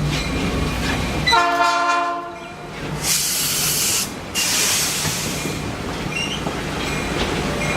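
Passenger train running with a steady low rumble, a single horn blast of a little over a second about a second in, then two bursts of hiss a few seconds later.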